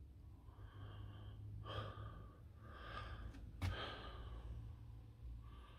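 Faint breathing close to the microphone over a low steady hum, with a single sharp click about three and a half seconds in.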